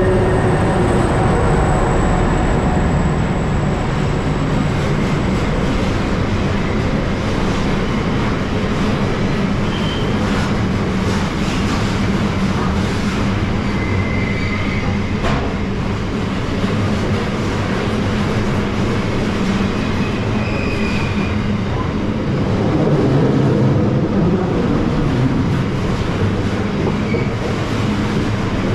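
Diesel-hauled container freight train passing: locomotive engines running under a steady rumble and steel wheels clicking over rail joints, with a few brief high wheel squeals.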